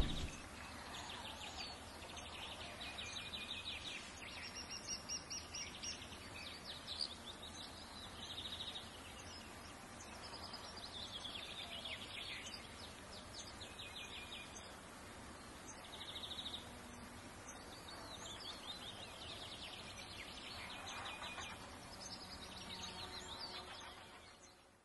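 Faint birdsong: small birds chirping and trilling in quick repeated phrases over a soft steady hiss, cutting off suddenly near the end.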